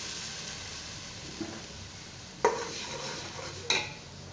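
Ground onion paste sizzling in hot oil in a metal cooking pot, the sizzle slowly fading, while a metal ladle stirs it and knocks sharply against the pot twice, about halfway through and near the end.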